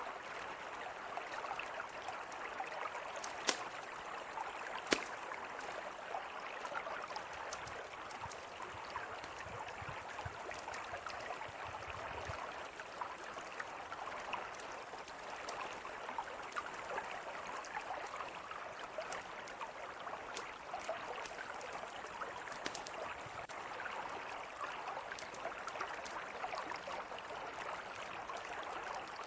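Mountain river flowing steadily, with a campfire crackling over it in scattered small pops and two sharper, louder pops a few seconds in.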